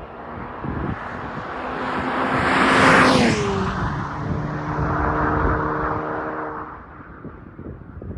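VW GTI with a TCR muffler, turbocharged four-cylinder, driving past. Its exhaust note grows to its loudest about three seconds in, drops in pitch as the car goes by, then fades away.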